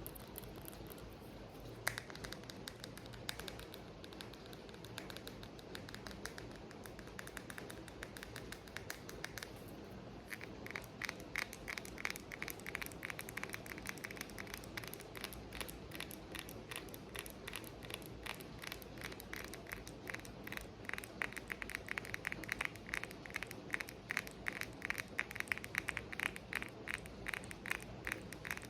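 Tapping on an object over a steady rain background: scattered taps at first, then about ten seconds in a fast, continuous run of crisp taps.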